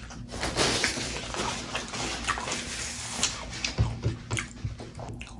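Close-miked chewing of a mouthful of food: a steady run of crunching, clicking and wet mouth sounds.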